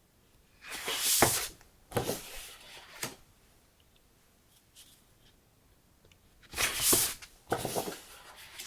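Sheets of decorative paper rustling as they are handled and turned over, in two pairs of rustles, the second pair about five seconds after the first.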